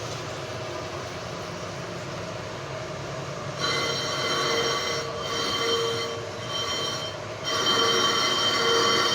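Machine running with a steady hum, then a high-pitched metal-on-metal squeal of several steady tones from a tool cutting metal. It starts about three and a half seconds in and breaks off briefly twice.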